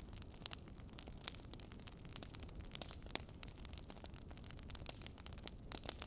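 Wood fire crackling in a fireplace: irregular sharp pops and snaps over a low steady rumble, with a few louder pops near the end.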